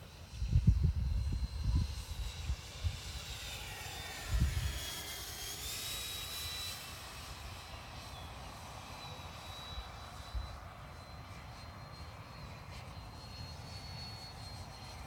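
Distant high whine of a 75 mm electric ducted fan on a radio-controlled jet model (6S Viper jet) in flight. Its pitch dips and rises again about four to six seconds in. Low wind buffeting thumps on the microphone in the first couple of seconds and again briefly near the middle.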